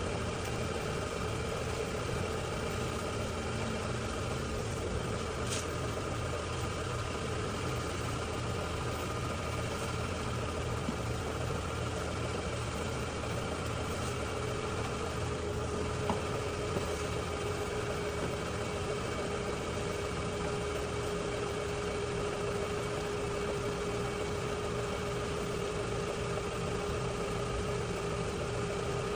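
A steady engine-like hum. A faint steady tone joins it about halfway through.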